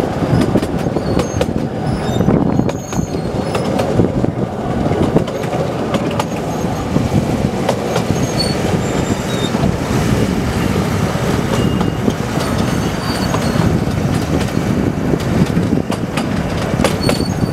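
Narrow-gauge tourist train heard from an open-sided carriage: a steady rumble and rattle of wheels on track, with scattered clicks and short high wheel squeals here and there.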